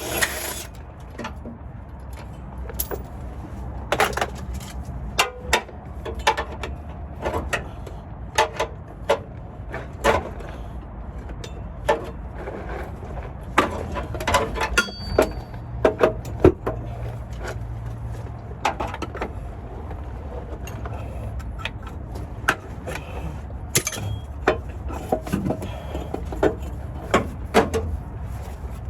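Irregular metallic clicks, knocks and clinks of hand tools at work on a vehicle being stripped for parts, over a steady low rumble.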